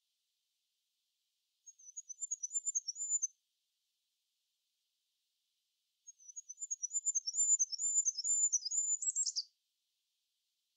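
A small songbird singing two phrases of rapid, very high, thin notes. The first is short; the second, a couple of seconds later, is longer and ends in a quick falling flourish.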